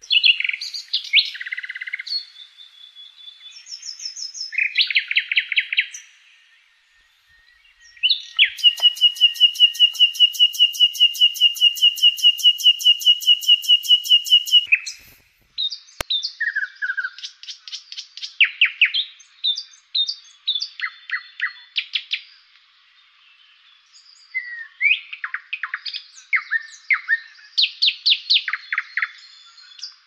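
Songbirds singing in short chirped and whistled phrases, with a long, fast, even trill lasting about six seconds in the middle. A single sharp click comes about halfway.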